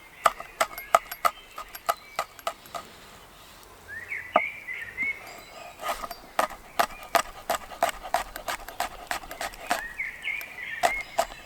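A fairly even run of sharp clicks or knocks, about three to four a second, with birds chirping in short twittering phrases about four seconds in and again near the end.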